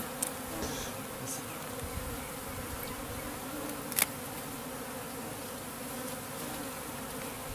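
A honeybee swarm humming steadily, a low, even, peaceful hum: a calm swarm, not the high-pitched sound of angry bees. A single sharp click about four seconds in.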